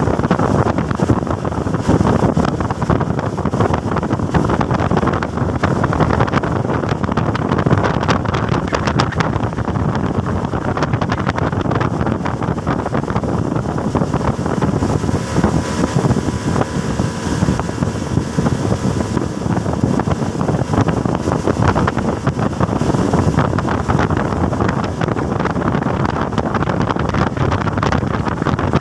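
Speedboat running at speed, a steady engine-and-water rush with wind buffeting the microphone.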